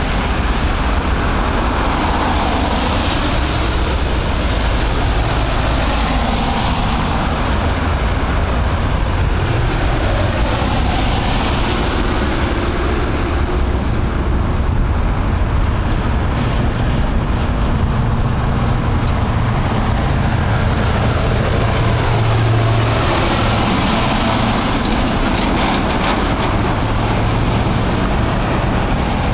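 Blizzard wind blowing hard over the microphone: a steady rushing noise with a heavy low rumble that swells and eases.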